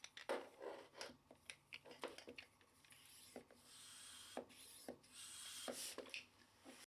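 A mini bike pump being handled, with a run of small clicks and taps from its parts, then two stretches of rubbing, each about a second long, in the second half.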